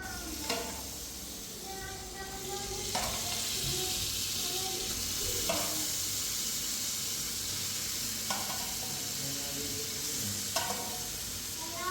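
A steady hiss that builds up about three seconds in, with a few sharp clicks every couple of seconds and faint voices underneath.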